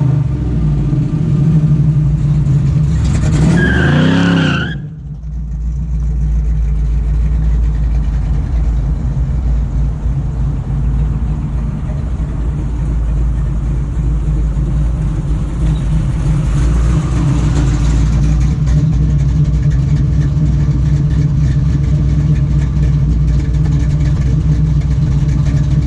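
1970 Chevrolet Camaro's engine: its note rises and falls in pitch in the first few seconds, then settles about five seconds in to a steady low idle.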